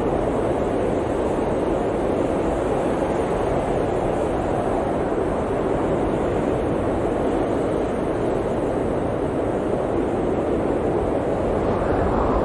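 Steady blizzard wind, an even rushing noise that swells slightly near the end.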